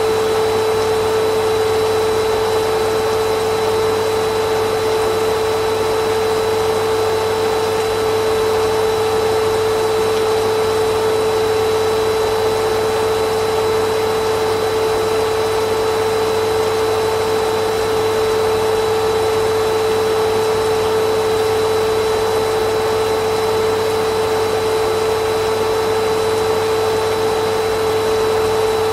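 Vacuum cleaner motor running steadily: an unchanging whirring hum with a strong mid-pitched tone over an even rushing hiss.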